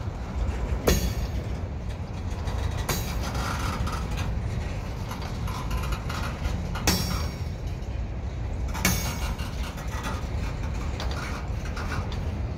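Freight train rolling past slowly: a steady low rumble of wheels on rail, with four sharp clacks in two pairs as wheels cross a rail joint.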